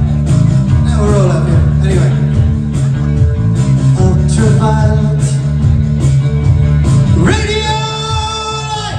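Live new wave band playing: a driving bass line and drum beat with guitar and synth. About seven seconds in, a note slides up and is held, bright and full, to the end.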